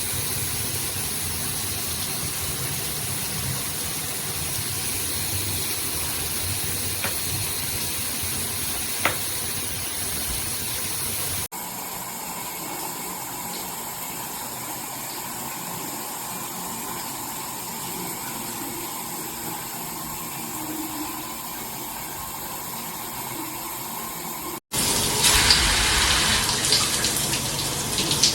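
BOWGER handheld shower head spraying water in a steady rush. The sound cuts off abruptly twice and changes each time, and the last few seconds are louder and splashier.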